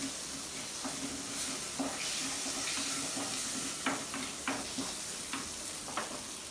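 Butter sizzling in a hot cooking pan, with a spoon knocking against the pan a few times as it is stirred.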